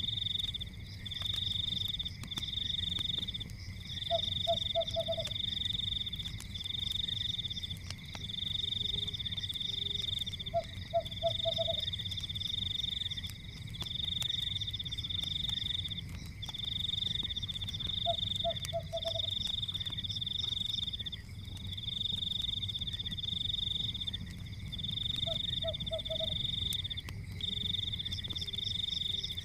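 Forest night chorus of high trilling animal calls, repeating in bouts a second or two long with short gaps, and a lower call of four or five quick pulses every six or seven seconds. Underneath, a low rumble and scattered faint clicks of a crackling fire.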